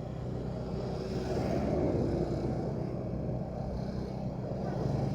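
Motorcycle engine running steadily while riding, with road and wind noise; the sound swells briefly about two seconds in.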